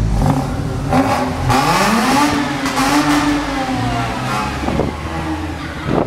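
Mazda RX-8's twin-rotor Wankel rotary engine revving up as the car pulls away through a concrete tunnel. The pitch rises about a second and a half in, holds for around a second, then drops back to a lower steady note for the rest.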